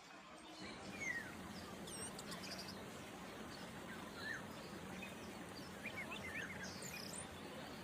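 Scattered short bird chirps and whistles, several sliding down in pitch, over steady outdoor background noise with a faint low hum.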